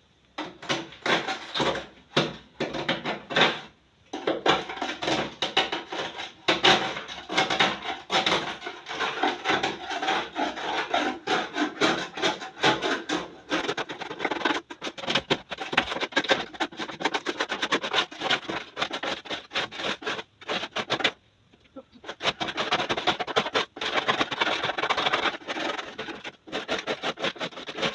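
Knife blade scraping and chipping built-up ice off the inside of a fridge's freezer compartment: fast, continuous rasping strokes in long runs, with short breaks about three seconds in and again past the twenty-second mark.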